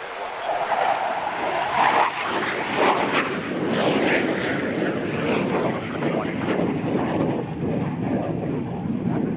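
Fixed-wing aircraft passing close on the airfield: loud engine noise that swells over the first couple of seconds and then holds steady.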